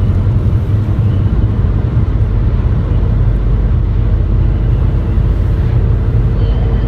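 Steady low rumble of a car being driven, with engine and road noise heard from inside the cabin.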